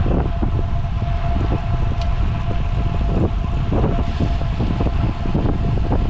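Wind buffeting the microphone of a rider on a moving road bicycle, a loud, steady low rush. A faint steady tone runs through it and stops about three seconds in.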